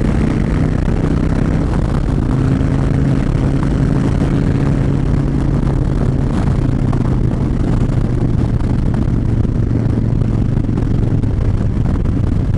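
2009 Harley-Davidson Fat Bob's V-twin engine running steadily at road speed, heard from the rider's helmet camera under loud wind noise.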